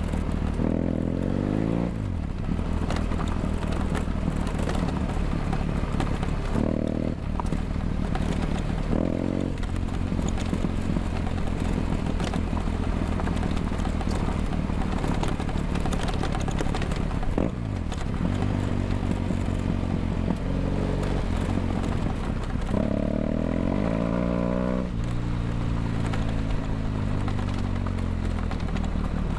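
BMW F800GS parallel-twin engine through a LeoVince LV ONE EVO stainless-steel exhaust, heard from on board while riding, its pitch rising and falling several times as the throttle opens and closes, with a longer climb in revs near the end.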